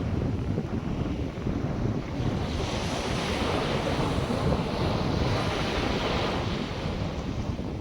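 North Sea surf: waves breaking and washing in, the hiss swelling and ebbing every couple of seconds, with wind buffeting the microphone.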